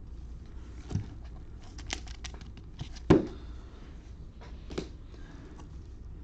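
Trading cards being handled on a table: light rustles and a few soft taps, with one sharper knock about three seconds in.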